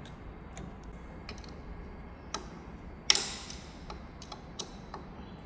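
Irregular light metallic clicks and ticks over a low steady workshop hum, with a sharper clack about three seconds in: tooling being handled and adjusted on a milling machine between cuts.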